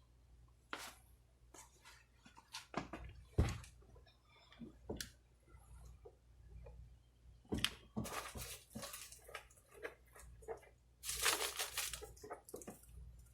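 Irregular clicks and knocks with bursts of rustling, from hands working on car door parts.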